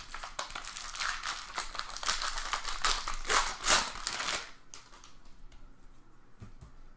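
Foil wrapper of a trading-card pack crinkling as the pack is opened: a dense crackle that stops about four and a half seconds in.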